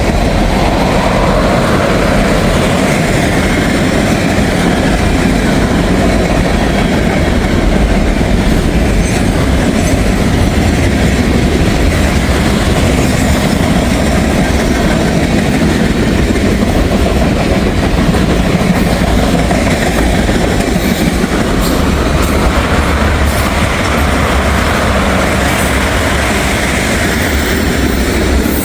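Freight train's cars rolling past at a steady pace: a loud, continuous rumble of steel wheels on rail with clickety-clack over the rail joints.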